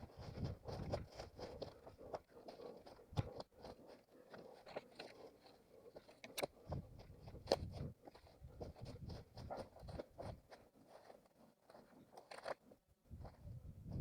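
Irregular soft crunches and scrapes of an orienteer's footsteps and brushing through leaf litter and undergrowth, with no steady rhythm.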